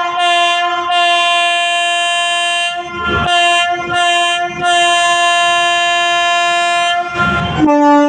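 Train horn sounding in two short blasts and one long blast, repeated twice, then a second, lower-pitched horn starts near the end. The horn is the departure signal of an Indian Railways express leaving the station.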